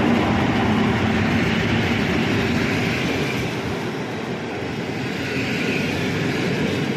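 A train running past on the rails, a steady rushing noise of wheels and running gear that eases a little midway and then swells again.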